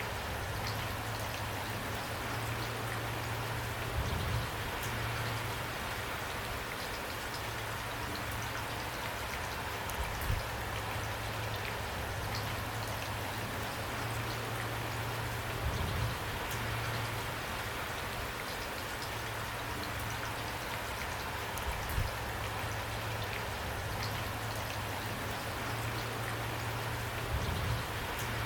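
Steady rain falling, a continuous patter of raindrops on a surface, with a slightly heavier surge about every six seconds.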